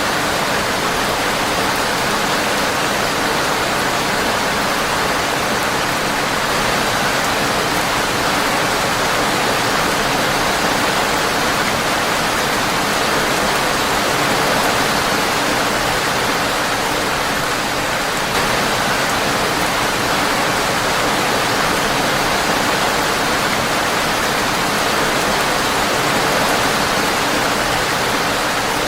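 Steady rain on a windowpane, an even, unbroken hiss of drops.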